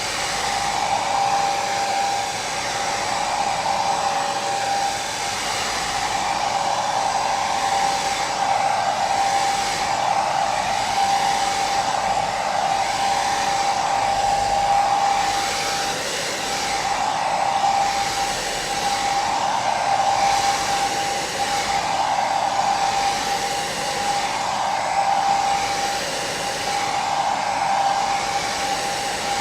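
Electric hair dryer running continuously: a steady rush of blown air with a whining tone from its motor and fan, swelling slightly every couple of seconds.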